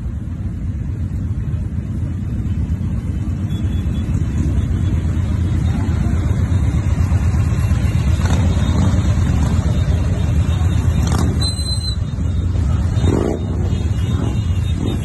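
Engines of a large crowd of motorcycles running together in a dense, steady low rumble that grows louder over the first several seconds. A brief high thin tone sounds about eleven seconds in.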